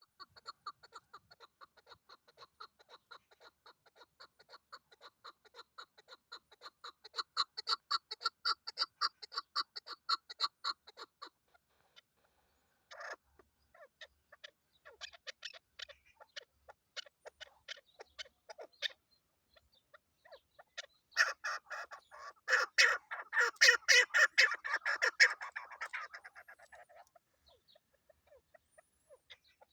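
Female chukar partridge (chakor) calling, the call hunters use as a lure: long runs of quick clucking notes, several a second, growing louder about seven seconds in and breaking off near eleven seconds. After a short pause come sparser runs, then the loudest, densest burst of calls past the middle, fading out near the end.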